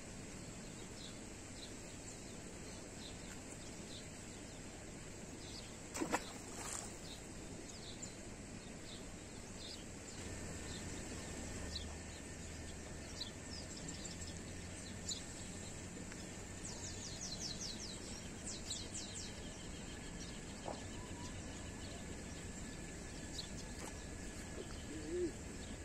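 Outdoor ambience with a steady background hiss and scattered bird chirps, including a quick run of repeated chirps about two-thirds of the way through. A single sharp click about six seconds in, and a faint low hum that comes in about ten seconds in.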